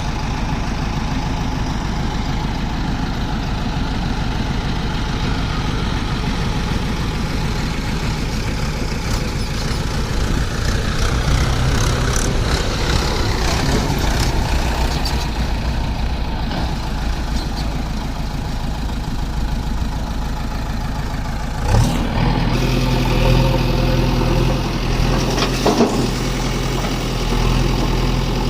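Heavy diesel engine running near idle, with its level rising for a few seconds around the middle. About three-quarters of the way through, a deeper, steadier engine note cuts in suddenly, followed by a few sharp knocks.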